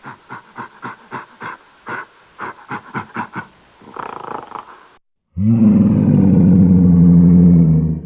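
Animal calls: a rapid run of short repeated calls, about three a second, then after a brief break a single long, loud, low call that fades near the end.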